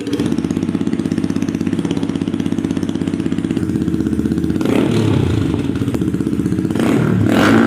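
Yamaha R15 V4's 155 cc single-cylinder engine running through an aftermarket SC Project exhaust, idling with an even, rapid pulse, then revved up about halfway through and again more strongly near the end.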